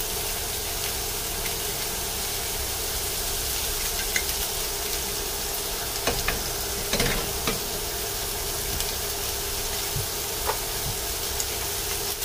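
Chicken and carrot slices sizzling steadily in a hot frying pan, with oyster sauce just poured in. A few light clicks and knocks come through, most of them in the middle.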